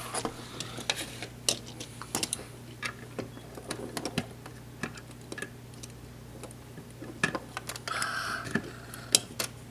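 Scattered light clicks and taps of plastic Lego pieces being handled.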